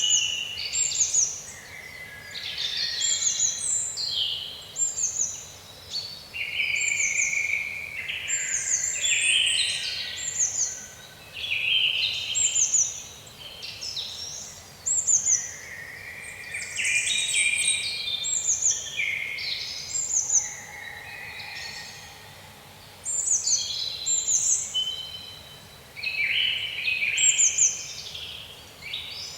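Several songbirds singing at once in a woodland chorus, short high chirps and trilled phrases overlapping, one after another every second or two, over a faint steady background hiss.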